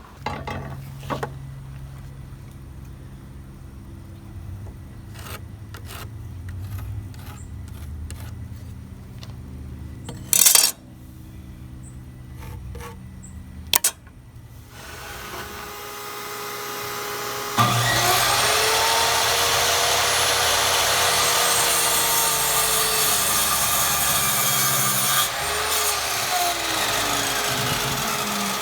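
A power tool starts up about two-thirds of the way in and runs loudly, its whine sagging and recovering as it works. Before that there is a low steady hum with a few sharp knocks, the loudest about ten seconds in.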